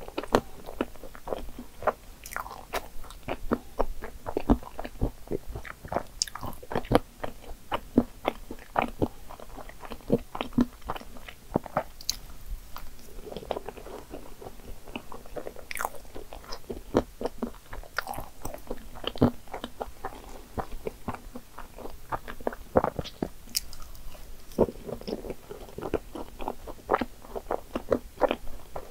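Close-miked chewing of cream-filled choux puffs topped with whipped cream and chocolate chips: a continuous run of short mouth clicks with the odd crunch.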